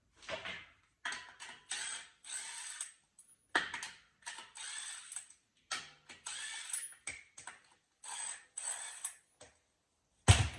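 Wheel lug nuts being spun off with a wrench in short bursts of mechanical clicking and rattling, broken by pauses, with one loud knock near the end.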